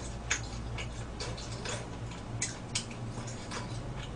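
Close-up chewing and lip-smacking on sticky braised pork ribs: short, irregular wet clicks, a few a second, over a low steady hum.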